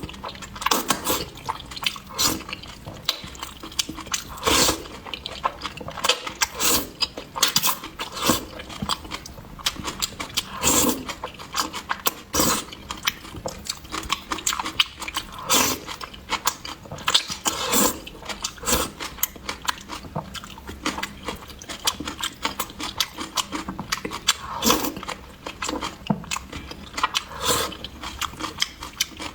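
Close-miked eating: wet chewing, biting and mouth smacks, coming as irregular clicks several times a second.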